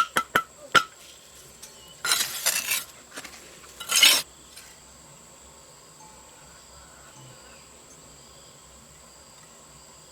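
Several quick, sharp knocks in the first second, then two short bursts of scraping about two and four seconds in, then only a faint steady background.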